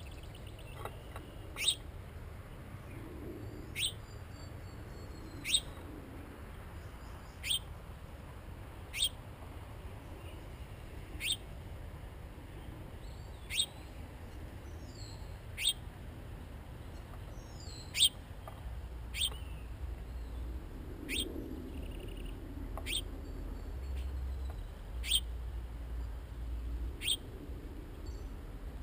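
A bird at a backyard feeder giving a single sharp, downward-sweeping chip note about every two seconds, over a low background rumble.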